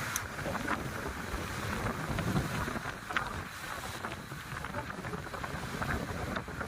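Wind buffeting the microphone over the sound of sea surf, a steady rushing noise with a few faint scattered clicks.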